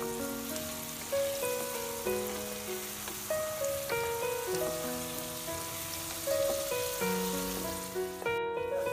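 Background music with a melody of held notes over a steady hiss of chicken and green peas sizzling in oil in a wok. The sizzle cuts out briefly near the end.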